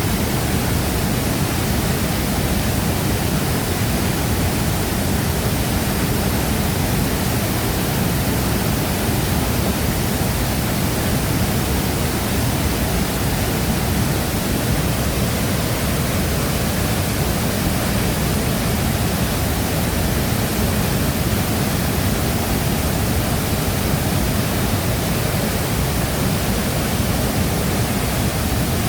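Shifen Waterfall: water falling and crashing into its pool as a steady, unbroken rush with a deep low rumble underneath.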